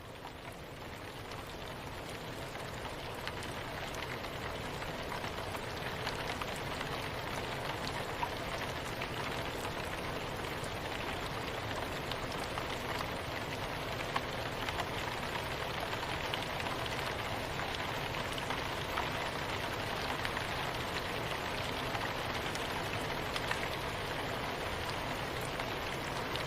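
Steady soft rain, a dense hiss with scattered louder drop ticks, fading in over the first few seconds and then holding even.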